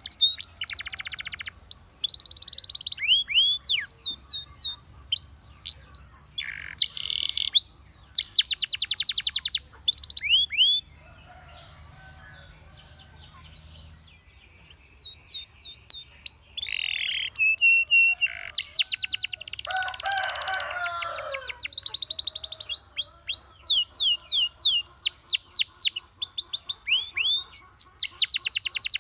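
Domestic canary singing: rapid trills and repeated quick falling whistled notes. The song breaks off for about three seconds partway through, then starts again.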